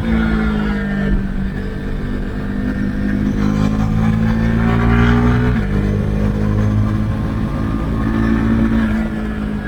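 Husqvarna Svartpilen 401's single-cylinder engine through an Akrapovic exhaust with its dB-killer removed, heard from the rider's seat under way. The revs climb steadily, drop sharply about halfway through as it shifts up a gear, and climb again before easing off near the end.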